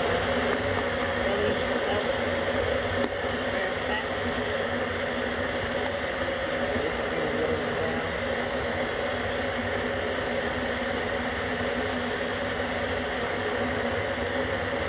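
Countertop blender motor running steadily at speed, blending a fruit smoothie.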